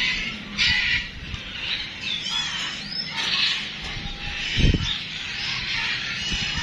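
Several birds chirping and calling at once, in short chirps and sliding calls. There is a brief low thump about four and a half seconds in.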